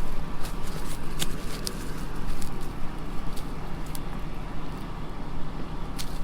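Combine engine running steadily with a low hum, with scattered clicks and crackles on top, while grass and damp dirt that choked the draper belt are being cleared.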